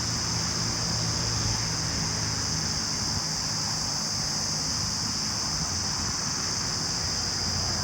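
Cicada calling: a loud, steady, high-pitched drone that holds unbroken, with a low steady hum beneath it.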